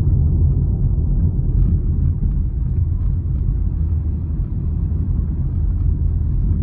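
Steady, loud low rumble, with faint crackles above it.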